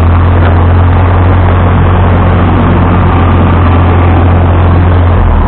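Vintage tractor engine running loud and steady with a deep hum.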